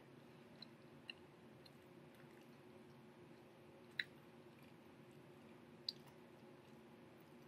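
Faint, close-mouthed chewing of a fried chicken sandwich, with a few short wet mouth clicks, the loudest about four seconds in and another near six seconds. A faint steady room hum lies underneath.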